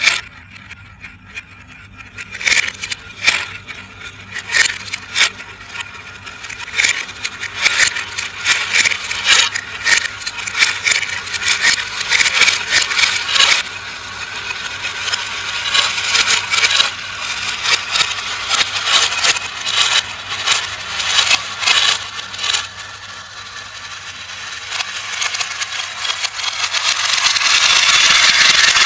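Glass marbles rolling along a marble run, clicking sharply and often as they knock against the track and each other over a steady rolling rush. Near the end the rolling grows into a denser, louder continuous rush.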